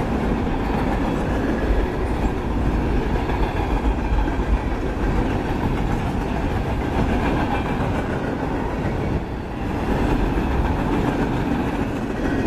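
Freight cars of a mixed manifest train rolling past close by, a steady heavy rolling noise with the clatter of steel wheels over the rail joints. It dips briefly about nine seconds in.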